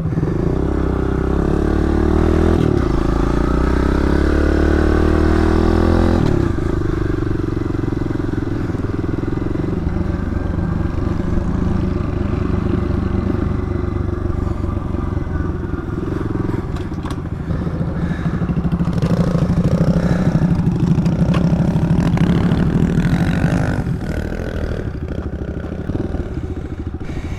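Mini bike engine revving hard, its pitch climbing for about six seconds before dropping back. It then runs on at a steadier speed and picks up again, louder, past the middle.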